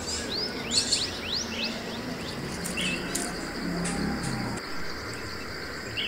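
Small birds chirping: a quick run of short rising chirps in the first second and a half and another about three seconds in, over a steady high insect buzz.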